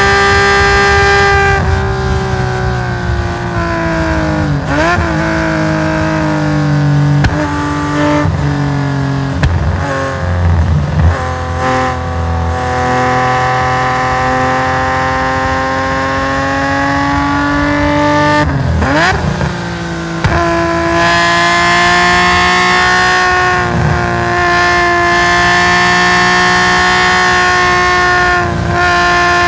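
Race-tuned Nissan S20 twin-cam straight-six of a Skyline GT-R, held at high revs, then lifting off: the note falls and there are several sharp throttle blips on downshifts. It then pulls steadily up through the revs, with a quick upshift about two-thirds in and another near the end.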